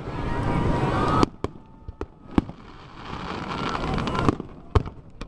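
Aerial fireworks going off. Two long swells of noise each end suddenly, and sharp single bangs come about a second and a half in, twice more around two seconds, and once near the end.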